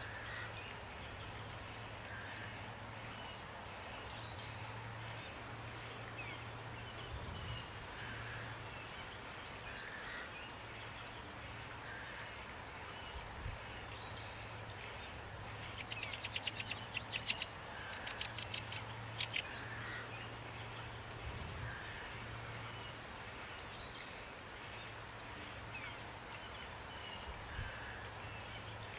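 Several birds chirping and singing over a steady hiss of rain, with a fast rattling trill about halfway through.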